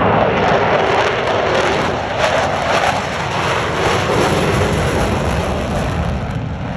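Jet noise from Blue Angels F/A-18 Super Hornets flying overhead, a loud, steady rush that slowly fades away.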